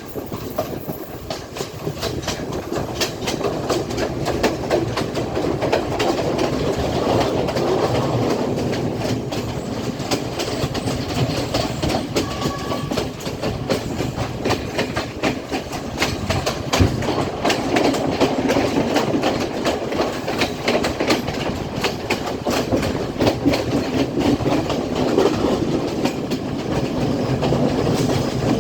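Class S12 diesel multiple unit running along the line: a steady running rumble, with the wheels clicking over rail joints in a continual clickety-clack.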